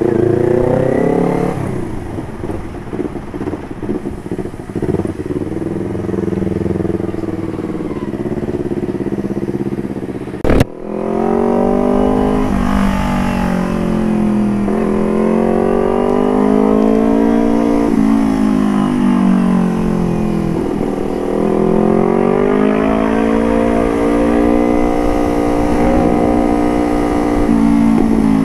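Motorcycle engine through an aftermarket carbon exhaust while riding. Its pitch climbs and falls again and again as the throttle is opened and eased off. There is one sharp knock about ten seconds in.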